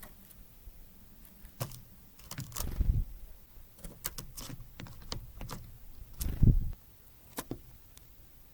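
Tits at a seed feeder: scattered sharp taps and clicks of beaks and feet on the feeder, with two louder low thuds about two and a half and six seconds in.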